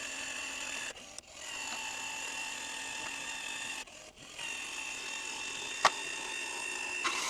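A small electric motor whining steadily at a high pitch, cutting out briefly twice, with a single sharp click near the end.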